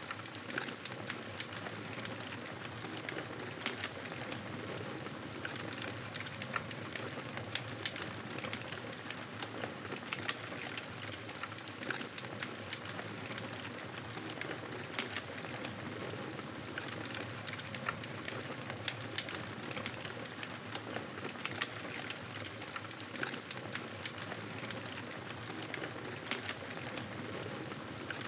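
Campfire burning: a steady hiss with frequent small pops and crackles of burning wood.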